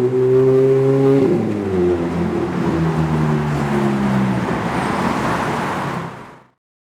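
Lamborghini supercar engine running at held revs, its pitch dropping about a second in, then running steady at lower revs before fading into a rushing road noise. The sound cuts off abruptly shortly before the end.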